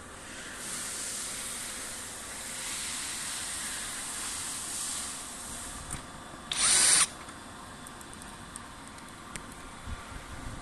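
A handheld power drill runs in one short burst of about half a second, a little past the middle. Before it there are several seconds of a fainter steady hiss.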